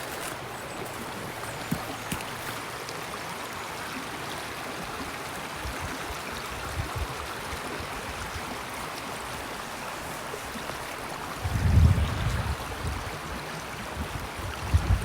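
Steady rushing of flowing water from a stream, with a brief low rumble about twelve seconds in.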